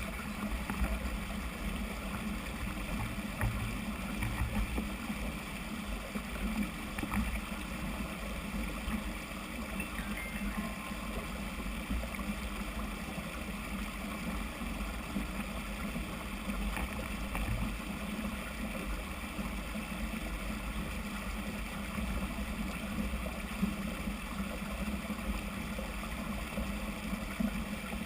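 Steady rushing noise with a fluctuating low rumble, typical of wind on the microphone of a camera riding along on a mountain bike.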